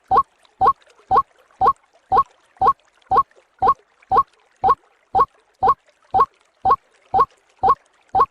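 White-breasted waterhen calls used as a lure: a short, rising note repeated steadily about twice a second.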